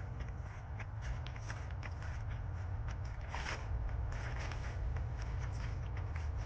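Footsteps crunching and rustling through fallen leaves and twigs on a muddy forest trail, irregular little clicks over a steady low rumble.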